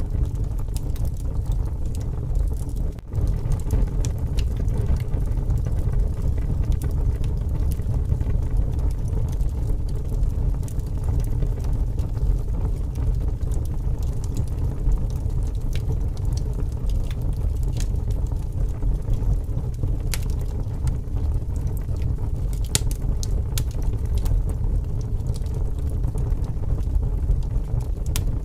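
Wood fire burning, with scattered sharp crackles and pops over a steady low rush of strong wind.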